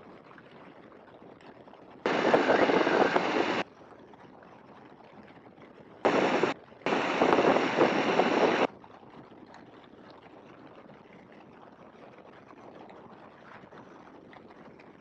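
Aircraft radio transmissions heard over the headset: three bursts of unclear radio traffic that cut in and out abruptly, one about two seconds in and two close together around six to nine seconds in. A steady low drone of aircraft engine and wind noise lies under them.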